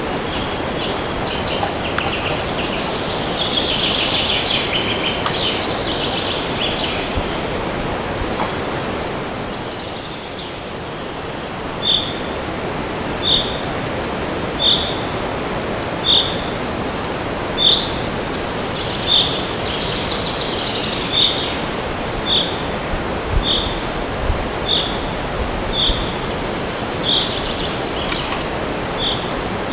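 Wind rushing steadily through forest trees, with birds twittering for the first several seconds. From about twelve seconds in, one bird repeats a single short, high call roughly every second and a half.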